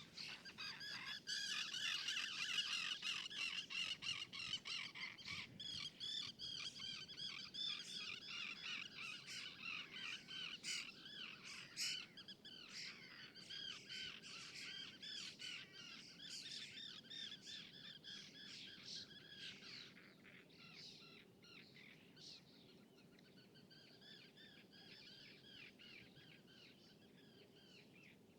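A flock of birds calling, many short chirping and cawing calls overlapping densely at first, then thinning and growing fainter toward the end, over a faint low steady hum of distant city noise.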